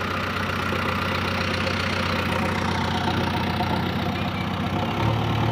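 Diesel engine of a tractor or backhoe loader idling steadily, getting a little louder near the end.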